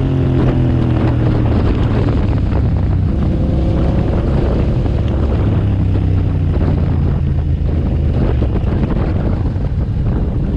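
2007 Suzuki SV650S's 645 cc V-twin engine running on the move, its pitch falling in the first couple of seconds and rising again a few seconds in, with wind rushing over the microphone.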